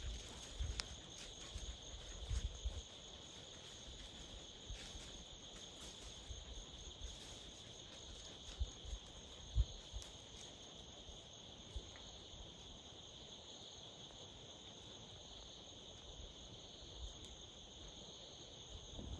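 Insects in the forest trilling steadily in one high, unbroken drone, with a few soft low thumps in the first few seconds and again about halfway.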